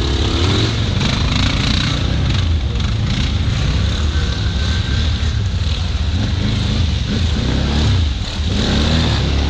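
ATV engine running and revving, its pitch rising and falling, with a brief drop in level near the end.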